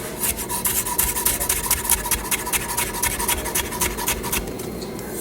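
Ceramic kitchen knife slicing a tomato thinly on a cutting board: quick repeated scraping cuts, a few a second, stopping about four seconds in.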